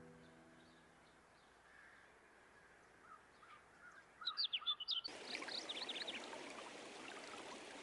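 Faint birds chirping: a run of short, quick chirps about three to five seconds in, with a steady hiss starting suddenly under them about five seconds in. The tail of a music track fades out at the start.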